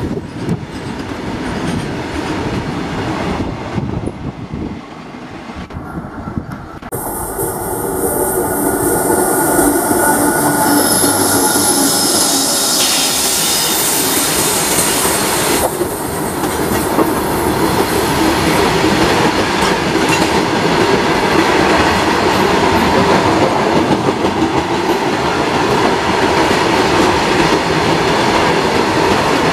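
Loaded freight wagons rolling past close by on a curved track: steel wheels clattering over the rail joints, with a high squeal from the wheels on the curve. The sound gets louder a few seconds in and changes abruptly a couple of times.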